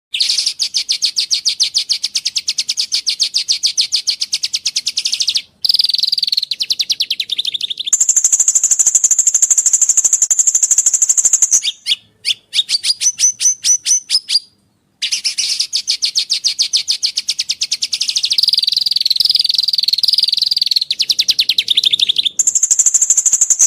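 Songbird song from a bird-song training recording: long, very fast trills of evenly repeated high notes. The trills switch between a lower and a higher, shriller pitch and are broken several times by short, sudden silences.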